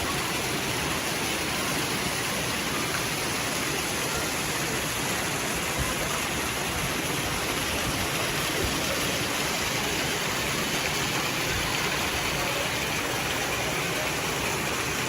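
Steady rushing noise that stays even in level, spread from low to very high pitches, with no pitched tone or rhythm in it.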